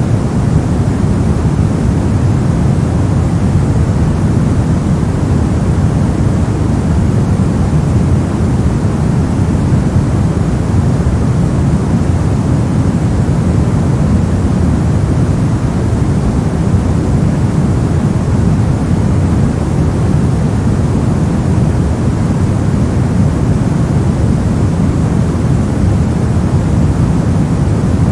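Steady white-noise track for sleep: an unbroken, even rushing hiss that never changes, heaviest in the low end and thinning out toward the highs.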